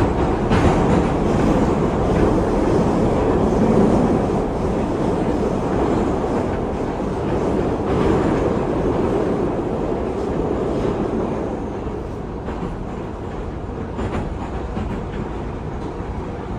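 Inside a Moscow metro car of a Metrowagonmash 81-775/776/777 train running through the tunnel between stations: a steady rumble of wheels on rail and running gear, easing somewhat in the last few seconds.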